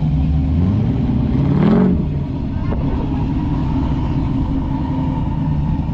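Car engines running as cars drive slowly by, with one engine revving up briefly a little under two seconds in.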